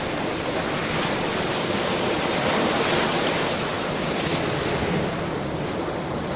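Ocean surf washing steadily, a wave swelling and then easing off toward the end.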